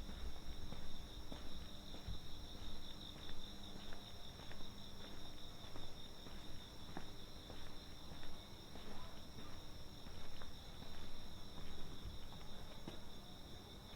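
Night insects, crickets, trilling in a steady, high-pitched chorus, with footsteps ticking at a walking pace underneath.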